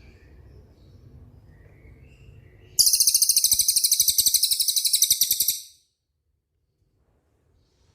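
Songbird singing a loud, very high, rapid trill (a 'roll') that starts abruptly about three seconds in and lasts nearly three seconds, over faint chirping from other birds. It cuts off suddenly into near silence, and faint chirps come back near the end.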